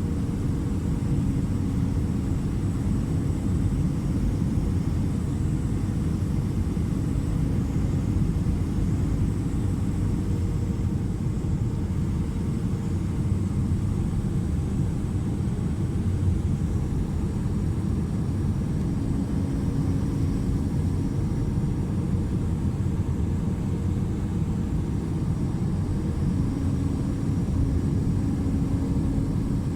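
Steady rumble of an Airbus A319's engines and airflow heard from inside the passenger cabin, with a constant low hum and no changes in pitch or level.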